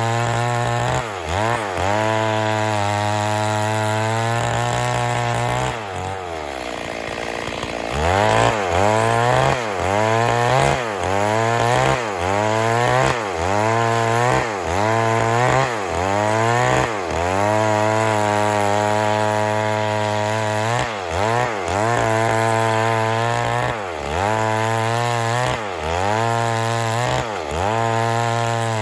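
Stihl MS 382 two-stroke chainsaw running at high revs, its engine pitch dipping and recovering about once a second as the chain is worked into wood. A few seconds in, the revs fall away for about two seconds, then climb back.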